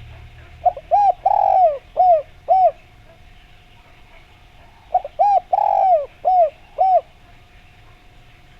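Spotted dove (derkuku) cooing: two song phrases about four seconds apart, each of five arched notes, two short, one longer, then two short.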